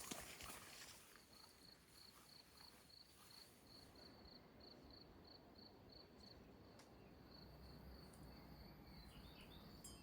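Faint cricket chirping: a steady high pulse repeating about three times a second over near silence.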